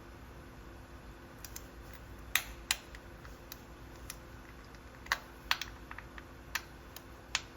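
Scattered light clicks and taps of hand tools and small metal parts being handled, about half a dozen at irregular spacing.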